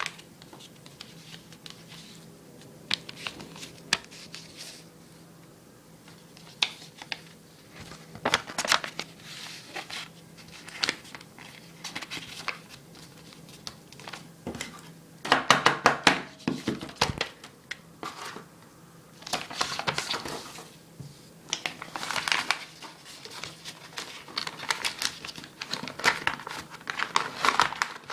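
Sheet of paper being handled roughly: crinkling, crumpling and perhaps tearing in irregular bursts of crackles, loudest in a dense stretch about halfway through. A faint steady low hum lies underneath.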